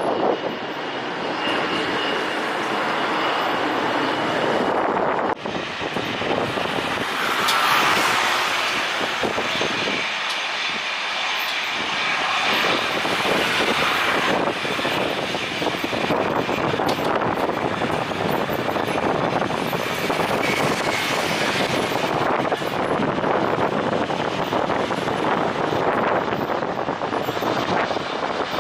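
Jet airliner engines as the plane lands: a steady rushing noise with a thin high whine that comes and goes.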